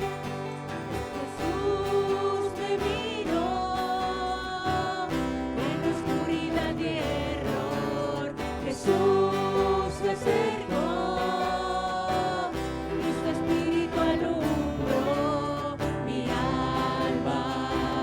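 Christian worship music: a group of voices singing over instrumental accompaniment.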